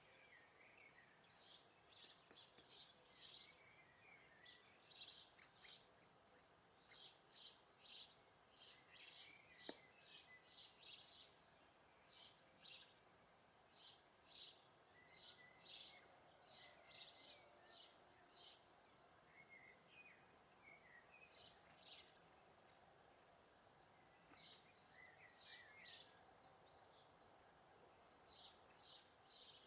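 Faint small songbirds chirping: quick runs of short, sharp high chirps repeated throughout, over a low background hum.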